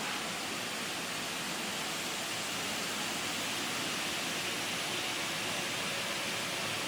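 Textile factory machinery running inside the mill, heard as a steady, dense noise that does not change.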